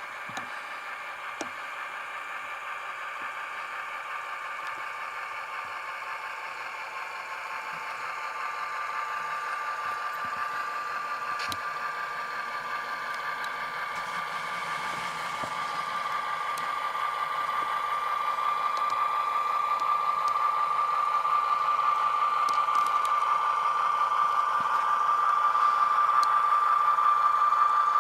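Model diesel locomotive's sound decoder playing a GE FDL-16 prime mover through the model's small speaker, with a steady whine and a light mechanical rattle from the running model; it grows steadily louder over the stretch, with a few faint clicks.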